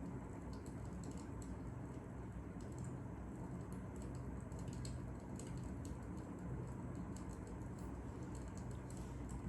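Fire crackling: irregular small pops and clicks, several a second, over a low steady rumble.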